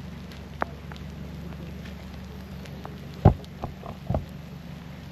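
Light rain: scattered raindrop ticks over a steady low rumble. A few heavier thumps come between about three and four seconds in, the first the loudest.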